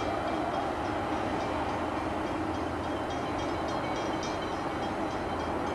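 A train approaching along the line, heard as a steady rumble.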